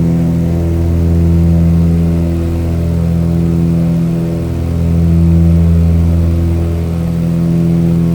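Aircraft engine droning steadily, its loudness swelling and fading slowly every few seconds.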